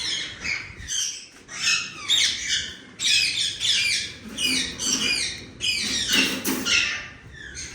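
Many caged parrots squawking and chattering at once, with a steady stream of short, harsh calls that often sweep downward and overlap one another.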